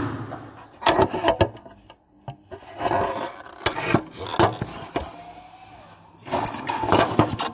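Handling noise: irregular bursts of knocks, clicks, scraping and rubbing, as objects are moved and set down by hand.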